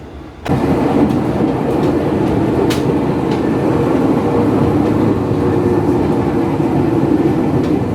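A train running, a loud steady noise that cuts in suddenly about half a second in, with a few faint clicks over it.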